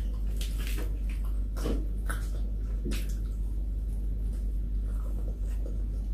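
Close-miked chewing and mouth smacks of a person eating, most of them in the first three seconds and sparser after, over a steady low hum.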